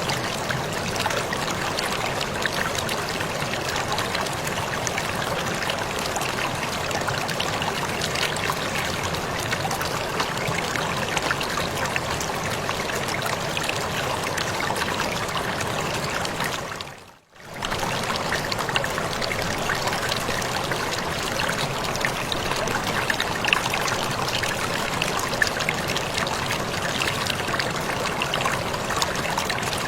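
Waterfall: a steady rush of falling, splashing water with small flecks of spatter. A little past halfway it fades out for a moment and comes straight back.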